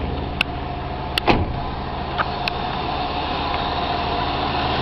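Oldsmobile 307 V8 idling steadily, with a few sharp clicks and one louder thump in the first two and a half seconds.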